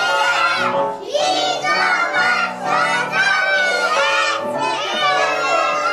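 A group of young children singing together over a musical accompaniment, with brief dips in the sound about one and two and a half seconds in.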